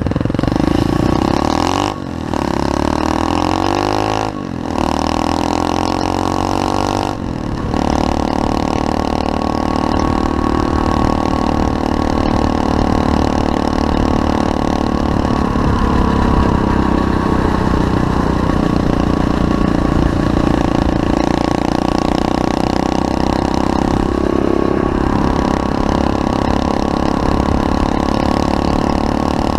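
SSR 125cc pit bike's single-cylinder four-stroke engine revving up through the gears, with a brief drop at each shift about 2, 4.5 and 7 seconds in, then running at a steady high speed.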